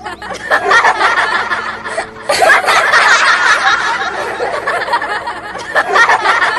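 Several girls laughing and chattering at once, their voices overlapping.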